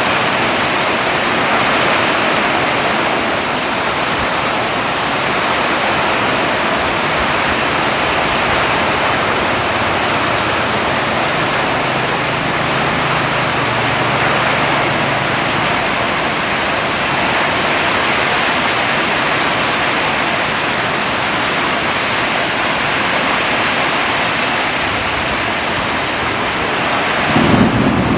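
Heavy rain pouring down in a loud, steady hiss. In the last second a sudden low rumble rises over it.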